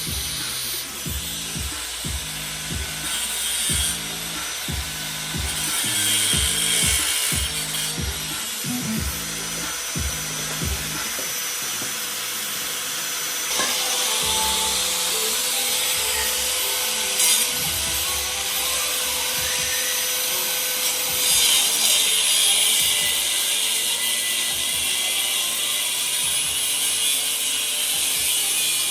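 Power tool sawing, a steady harsh hiss, with background music that has a low repeating beat over the first part.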